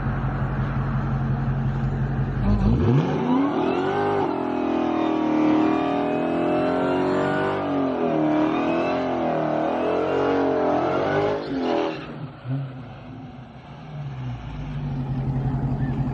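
A car engine idling with a steady low throb, then revved hard about three seconds in and held at high revs for about nine seconds, its pitch rising and falling, before cutting off suddenly. The idle comes back near the end.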